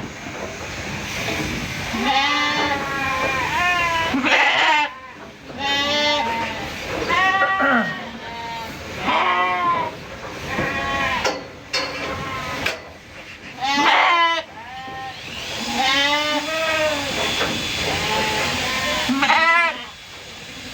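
Sheep bleating over and over, several calls overlapping, a new bleat about every second or two with a wavering pitch.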